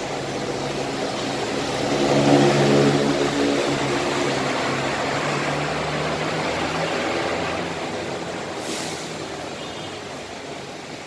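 Intercity bus engine running as the bus pulls in past, loudest about two seconds in, then slowly fading away. A short hiss comes near the end.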